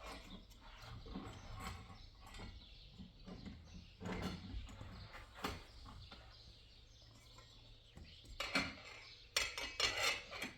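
Scattered clicks, clinks and knocks of hand tools and metal door hardware being handled, with a cluster of sharper clicks near the end.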